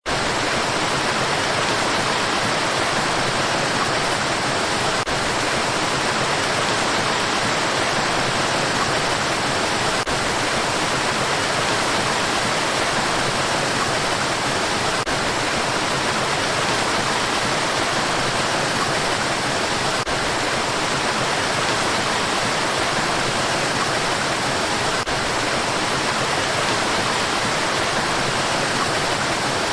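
Mountain valley stream: water flowing with a steady, even rush.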